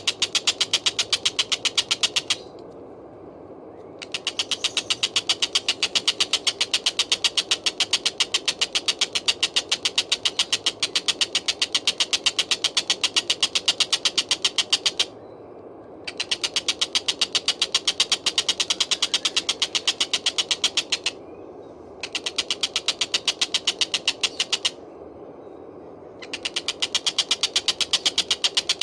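A tengkek buto, the kingfisher kept as a song tutor, calling in long bouts of a fast, even rattle of sharp high notes. The rattle breaks off for one to two seconds four times, and each bout starts up again at full strength.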